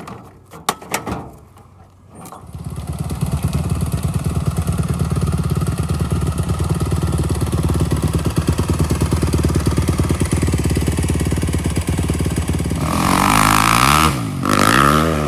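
A few knocks, then an off-road vehicle's engine starts up about two seconds in and runs steadily. Near the end it is revved up and down several times.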